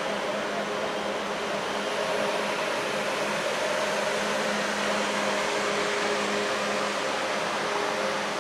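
ICE high-speed electric train passing on the far track: a steady rush of wheel and air noise with a faint, even hum underneath.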